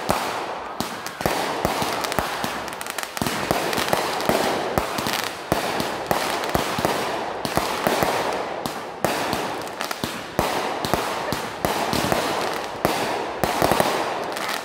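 Aerial fireworks launched from the ground and bursting overhead in a steady barrage: many sharp bangs and pops in quick succession, with no break.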